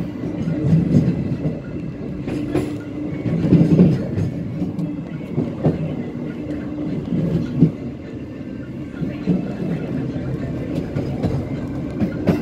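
Passenger train running on the rails: a steady low rumble of wheels on track, with scattered sharp clacks and knocks from the wheels passing over rail joints.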